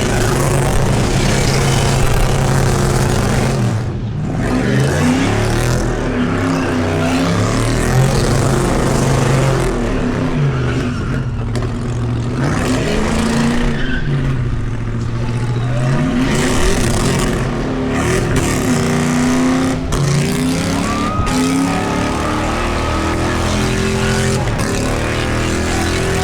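V8 muscle car doing a burnout: the engine revs up and down again and again at high load, over the steady hiss and squeal of a spinning rear tyre.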